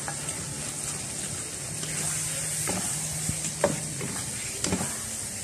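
Raw chicken pieces sizzling as they go into hot curry paste in a wok, with a wooden spatula scraping and knocking against the bowl and wok a few times in the second half.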